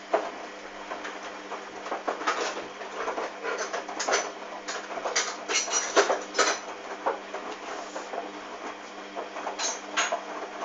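Hoover DYN 8144 D washing machine running mid-wash: a steady motor hum under irregular sloshing, splashing and clatter from laundry and water turning in the drum.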